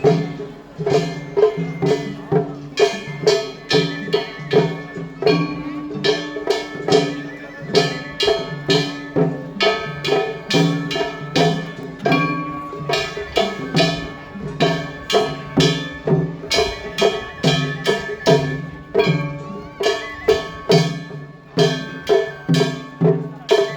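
Festival float hayashi: drums and metal hand gongs beaten in a fast, steady rhythm, with held ringing tones over the strikes.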